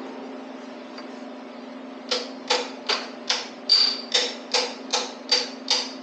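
Hammer tapping on a metal engine part, about ten light, evenly spaced strikes at roughly two and a half a second, starting about two seconds in. Each strike has a short metallic ring, over a steady low hum.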